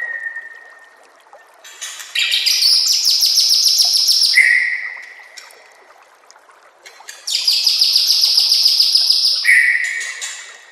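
White-rumped shama (murai batu) singing. A clear whistle fades out at the start. Then comes a rapid rattling trill of about two seconds followed by a slightly falling whistle, and the same phrase repeats once more.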